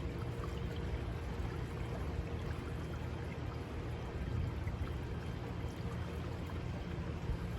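River water rushing past in a strong current, a steady even wash with no breaks.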